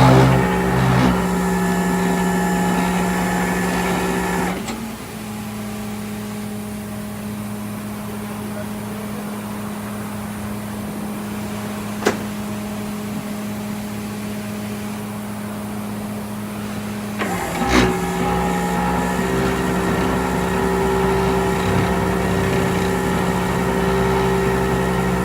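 Vehicle engine running steadily. About four seconds in it drops to a quieter, steady hum, and the fuller engine sound comes back at about 17 seconds. A single sharp click comes near the middle.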